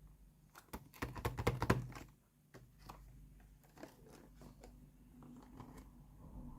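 Crinkling and tearing of plastic toy packaging, with clicks of small plastic pieces being handled. A dense burst of crackling comes in the first two seconds, then scattered light clicks.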